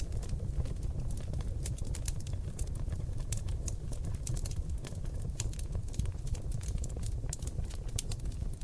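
Oak log fire in a fireplace crackling, with many irregular sharp pops and snaps over a steady low rumble of the flames.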